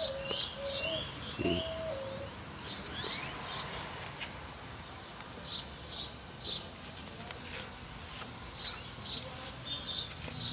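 Birds chirping in quick groups of two or three high notes, repeating every few seconds, with a low cooing call like a dove's during the first couple of seconds.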